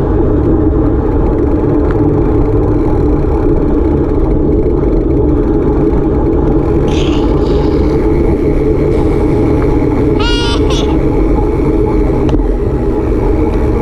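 Loud, steady rumbling noise of the kind made by a passing vehicle or wind on the microphone. Two short high-pitched squeals come about seven and ten seconds in.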